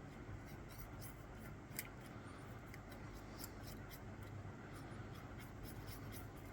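Faint, irregular scratching and light ticking of a dental amalgam carver being drawn across freshly placed amalgam as the cusps are carved.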